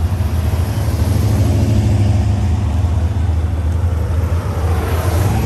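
Car engines running in passing road traffic, a steady low rumble with an engine note that rises slightly partway through.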